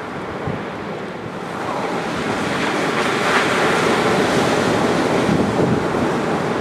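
Ocean surf breaking on a sandy beach: a steady rush of water that swells to a peak about halfway through and slowly eases off.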